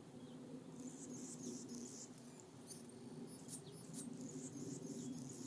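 Small songbirds calling at the feeders: rapid runs of very thin, high-pitched squeaky chips, starting about a second in, with a few short down-slurred notes, over a faint steady low hum.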